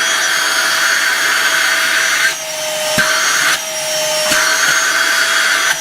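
Novete VT-DH005 cordless handheld vacuum cleaner running, a steady motor whine under the rush of air, while it slowly draws a bag into its nozzle. The airflow sound dips twice in the middle, with a couple of faint clicks.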